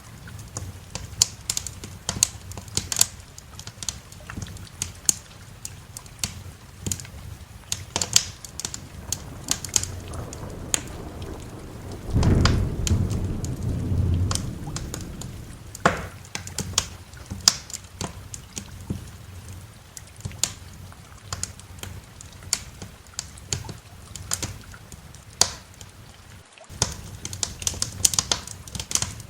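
Wood fire crackling with frequent sharp pops over steady rain, with a low rumble of thunder about twelve seconds in that lasts a few seconds.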